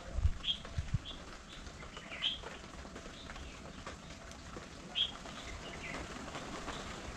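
Birds giving short, high chirps at irregular intervals, over a steady hiss of light rain.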